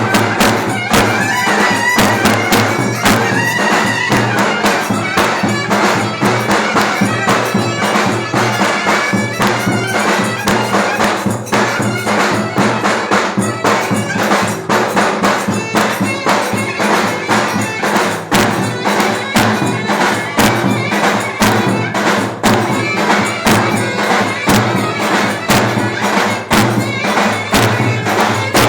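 Turkish clarinet playing a melody over steady davul drum beats: live folk dance music for köçek dancing.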